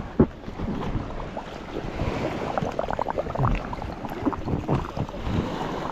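Air bubbling out of an inflatable pool float held under the water as it is deflated: irregular gurgling pops over water sloshing, with two sharp knocks at the very start.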